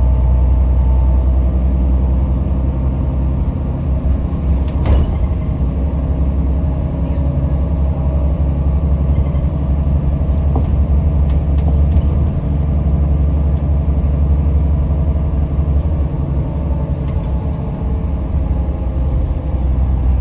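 Yutong ZK6128HG diesel city bus under way, its engine and running gear making a steady low drone, with a sharp knock about five seconds in and a few lighter rattles later.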